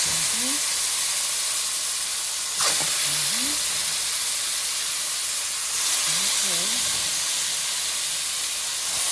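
Seasoned chicken thighs frying in hot oil and curry in a pot, a steady loud sizzle, with a brief louder flare of sizzling about two and a half seconds in.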